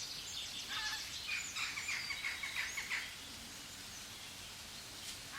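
A bird chirping: a quick run of short, high notes for about three seconds, then it stops, leaving a faint steady background hiss.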